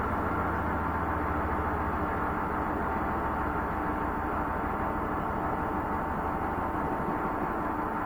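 LAC12 top-load washing machine running with an unbalanced load: a steady motor hum with a low rumble that eases off about halfway through.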